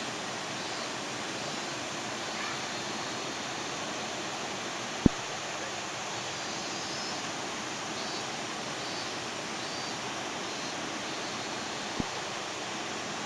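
Waterfall in heavy flood after days of typhoon rain, its water rushing steadily. Two sharp clicks cut through it, a loud one about five seconds in and a fainter one near the end.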